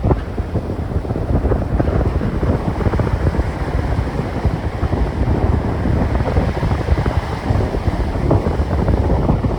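Strong wind buffeting the microphone: a loud, uneven low rumble that gusts up and down.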